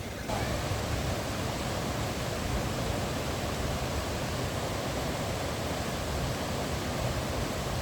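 Steady rushing roar of water pouring down a waterfall, coming in suddenly just after the start.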